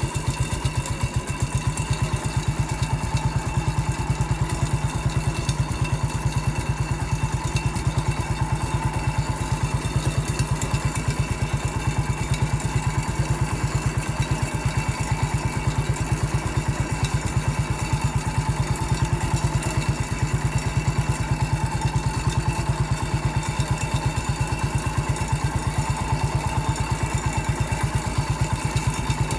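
MF 14 garden tractor's engine running at a steady speed as the tractor drives along, a fast, even engine beat with no change in revs.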